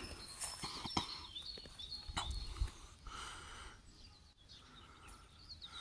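Small birds chirping in a string of short high calls over outdoor background noise, with a few light clicks and a brief low rumble about two seconds in.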